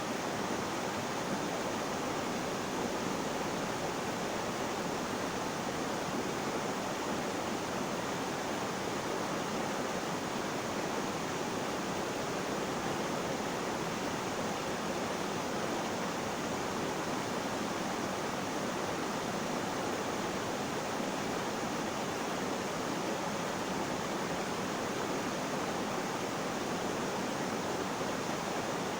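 Flowing water making a steady, even rush, with no separate splashes or drips.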